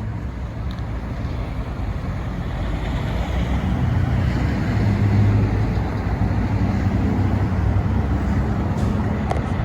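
Road traffic: vehicle engines running with a steady low rumble, louder as a vehicle passes about four to six seconds in.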